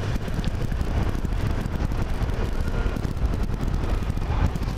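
Steady low rumble of a vehicle on the move, with wind rushing and buffeting the microphone.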